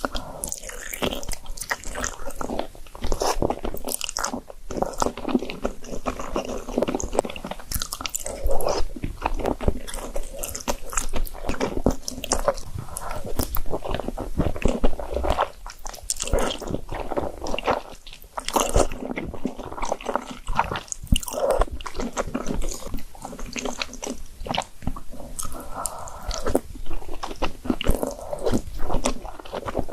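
A person eating spicy noodles and dumplings close to the microphone: continuous chewing and biting, with a dense, irregular run of wet clicks and smacks.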